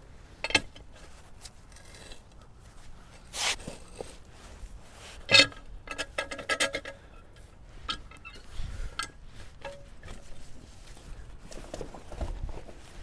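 Irregular metal clanks and knocks with a short scrape as a log is rolled and levered with a peavey. The loudest knock comes about five and a half seconds in, followed by a quick run of clicks.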